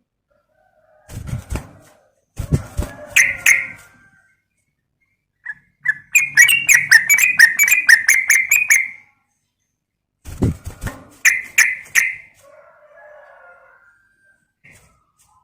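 Yellow-vented bulbul (trucukan) calling in short bright bursts. In the middle comes a fast run of about a dozen quick repeated notes. Low thumps come with a few of the bursts.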